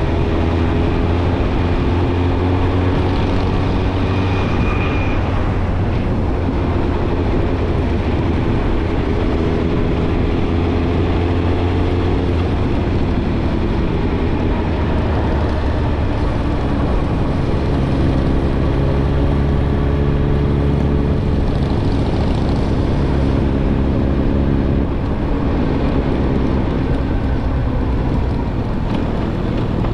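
Suzuki GSX-R1000's inline-four engine through a Yoshimura Alpha exhaust, heard while riding at an easy pace, its note climbing gently in several stretches of light acceleration, with wind rush over it.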